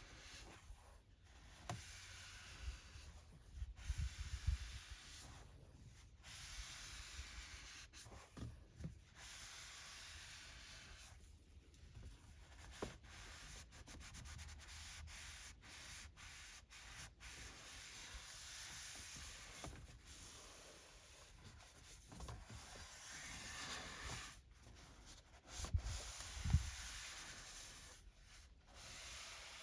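Microfiber cloth wiping over car interior surfaces: stretches of rubbing broken by short pauses, with a few low bumps, the loudest about four seconds in and near the end.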